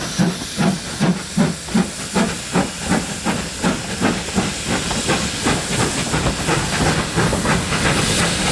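Steam locomotive working a train, its exhaust beats sharp at about three a second, then blending into a steady hiss of steam about halfway through.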